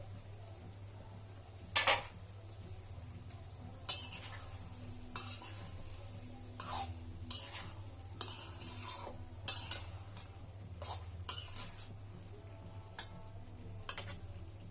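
A utensil stirring food in a cooking pan, with about a dozen irregular scrapes and clinks against the pan, the loudest about two seconds in, and light sizzling. A steady low hum runs underneath.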